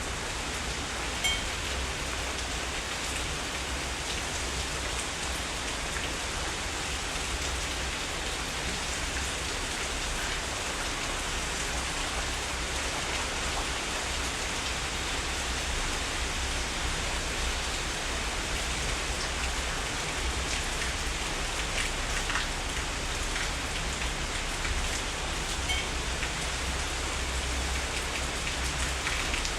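Heavy rain falling steadily, a dense even hiss with a few louder drops ticking now and then and a steady low rumble underneath.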